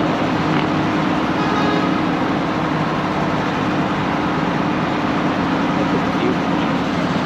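ERF EC11 truck's straight-piped Cummins M11 diesel engine running steadily under way, a constant low drone with no change in pitch.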